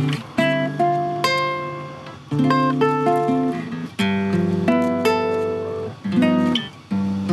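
Solo acoustic guitar playing a slow piece: chords and melody notes plucked about once a second, each left to ring and fade.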